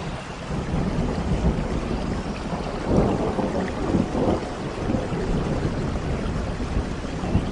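Rain falling with low rolling thunder, the rumble swelling about three seconds in and again a second later.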